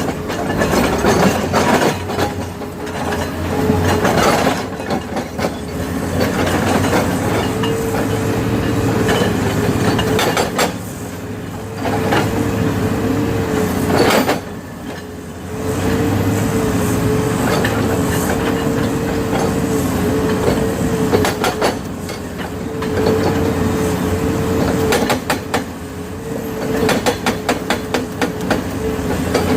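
Heavy machinery clearing landslide debris: an engine running under load with a steady whine that drops away briefly twice, amid clanking and knocks, with a quick run of knocks near the end.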